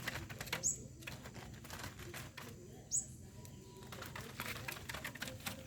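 Small bird giving two short, high chirps about two seconds apart, over a steady run of light clicks and rustling.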